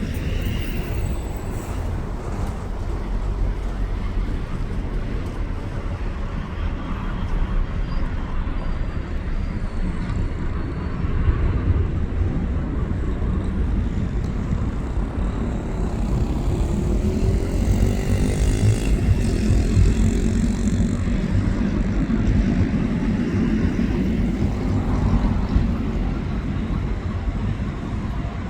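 Airbus A330 jet engines rumbling at takeoff power, growing louder about eleven seconds in and peaking a little past the middle with a sweeping, shifting tone, then easing slightly toward the end.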